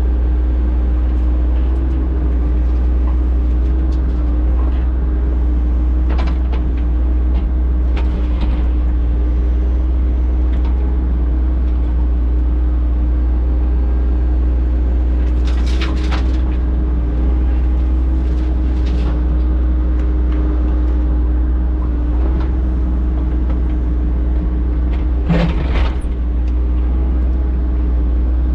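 Engine of heavy earthmoving equipment running steadily at a constant pitch, with a few short knocks or scrapes, the loudest about 16 and 25 seconds in.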